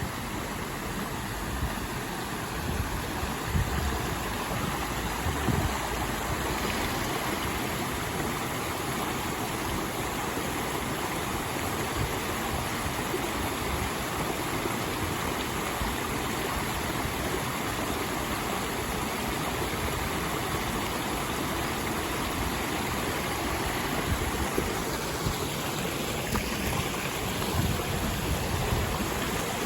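Mountain stream water rushing steadily over rocks, with a few dull low bumps a few seconds in and again near the end.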